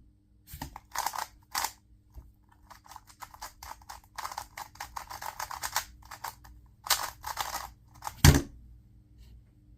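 A 2x2 speed cube being turned rapidly during a timed solve: quick runs of plastic clicking and clacking, with one loud thump about eight seconds in.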